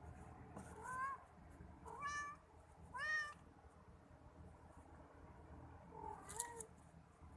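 Cat meowing: three short meows rising in pitch, about a second apart, then one more near the end.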